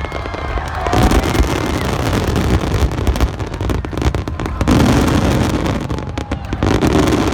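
Aerial fireworks bursting in quick succession: deep booms under a dense crackle of sharp reports, with a faint whistle or two.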